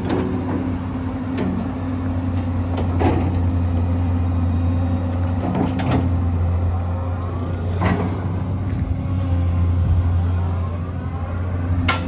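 Komatsu PC200LC-8 excavator's diesel engine running with a steady low hum, with a few sharp clanks a couple of seconds apart. Faint rising and falling whines come in from about eight seconds in.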